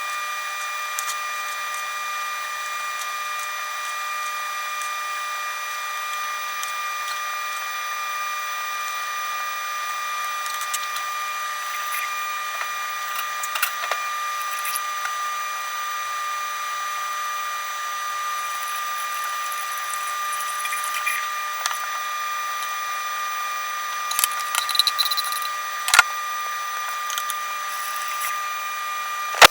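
Steady high whine with scattered knife taps and knocks on a chopping board as tomatoes are cut. The taps come a few at a time, with a louder cluster near the end.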